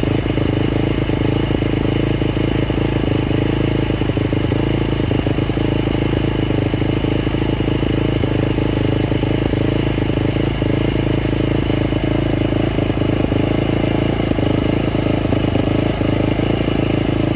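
Dirt bike engine running steadily at an even speed, with no revving.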